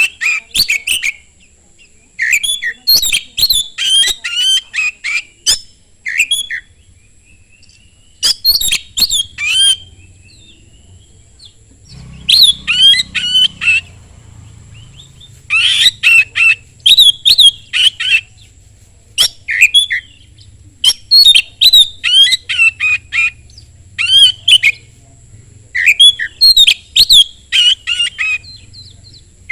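Oriental magpie-robin singing loudly in repeated bursts of quick, varied chirps and whistles. Each burst lasts a second or two, with short pauses between them.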